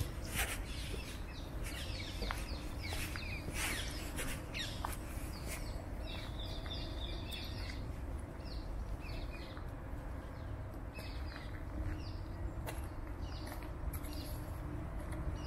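Small birds chirping and calling in quick short notes, busiest in the first half and thinning out later, over a low steady rumble.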